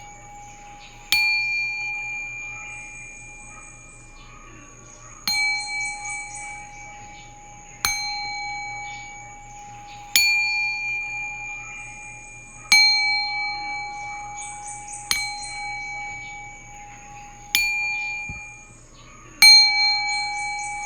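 Metal singing bowl struck with a mallet eight times, about every two and a half seconds, each strike ringing on in a few steady, slowly fading tones.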